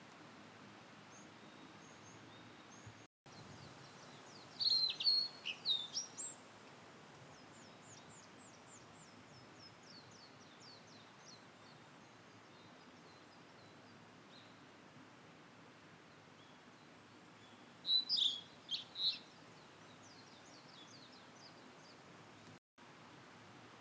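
Blue-and-white flycatcher singing: two short phrases of clear whistled notes about thirteen seconds apart, with fainter, quicker bird calls between them over a steady background hiss.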